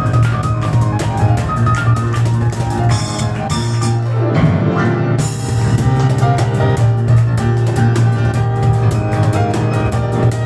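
Live piano and cajon duo playing a fast, driving instrumental, the cajon beating out a dense steady rhythm under rapid piano figures. About four seconds in the percussion drops out for roughly a second, then the beat comes back in.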